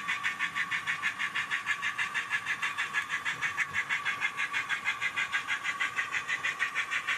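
The DCC sound decoder in an Accurascale J68 0-6-0T model tank locomotive plays a steam engine's exhaust as rapid, even chuffs, about six a second, over a steady whine.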